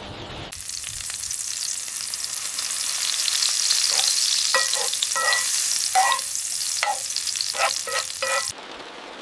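Dense, hissing downpour of heavy rain, starting abruptly about half a second in, swelling, and cutting off suddenly near the end. A few short high chirps sound over it in its second half.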